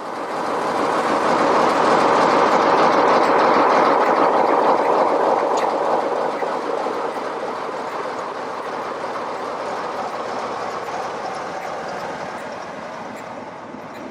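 Heritage railway train running on the track: a steady rail and running noise that swells over the first two seconds, holds, then slowly fades.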